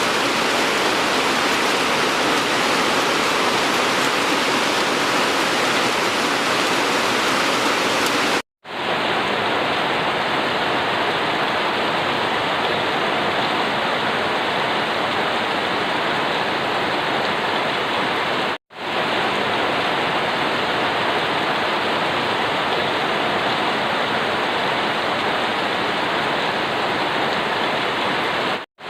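Steady, dense rainfall as an even hiss. It cuts out to silence for a moment three times, about every ten seconds, and fades straight back in. After the first break it sounds duller, with less treble.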